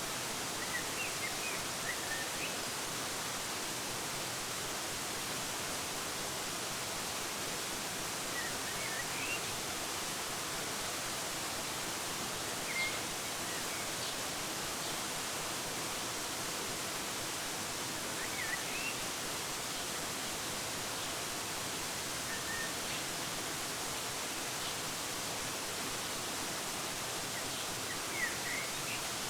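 Waterfall's steady rush of water, with short high bird chirps in small clusters now and then, about six times.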